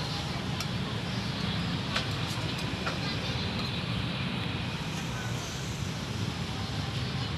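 Steady outdoor urban background din with a low rumble of road traffic, a few faint clicks over it.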